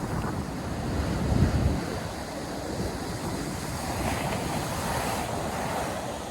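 North Sea surf breaking and washing up the beach, with wind rumbling on the microphone. A low gust swells about a second in, and a wave washes in about four seconds in.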